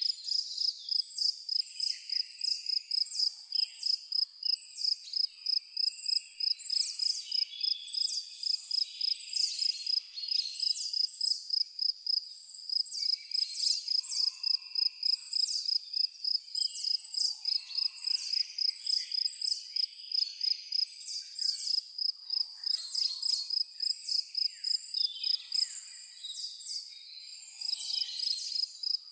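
Crickets chirping in a steady, rapid high-pitched pulse, with birds chirping on and off over it.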